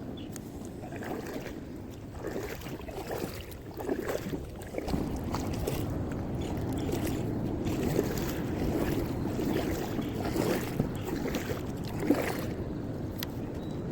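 Water sloshing around a kayak, with wind on the microphone and an occasional sharp knock, the loudest about twelve seconds in.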